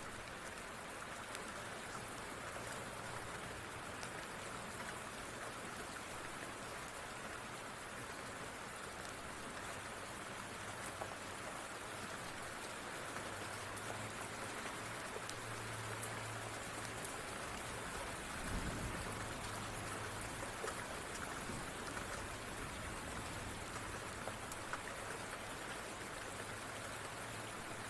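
Steady rain falling, an even hiss, with scattered sharp ticks and crackles from a wood fire and a faint low rumble; one soft low thump about two-thirds of the way through.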